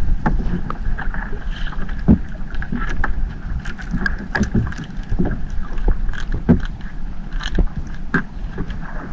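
A small fishing boat's engine running steadily, with frequent irregular clicks and knocks as crab gillnets and catch are handled on deck.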